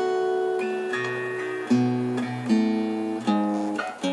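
Acoustic guitar strummed, its chords ringing on and changing every second or so, with no voice.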